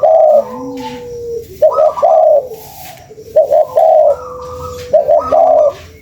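Spotted dove (tekukur) cooing: a phrase of two or three short notes and a longer coo, repeated about every second and a half, four times. It is a lure call for drawing in tekukur.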